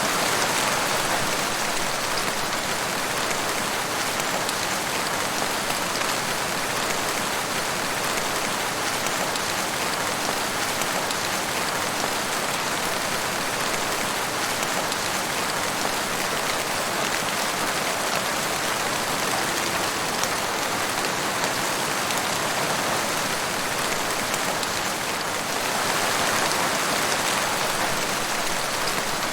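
Steady rain falling in a forest: a dense, even hiss of many raindrops, swelling slightly louder near the end.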